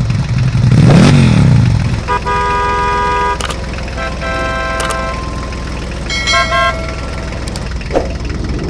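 Vehicle sound effects: an engine revving up and back down, then a horn tooting three times, each toot on a different pitch, the last one choppy and broken up.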